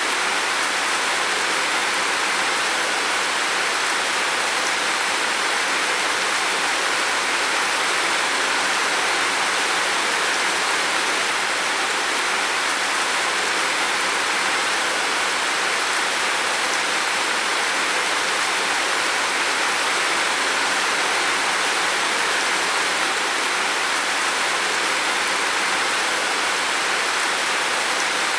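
Heavy rain falling on a roof: a dense, steady hiss of rain that keeps an even level throughout.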